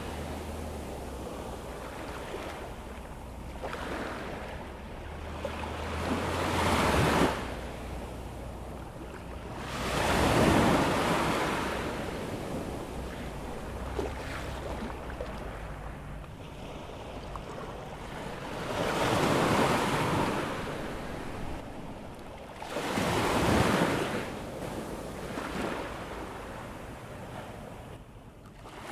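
Atlantic surf breaking and washing up a sandy beach on an incoming tide, in surges that swell and ebb, four of them louder. For the first several seconds there is also a low rumble of wind on the microphone.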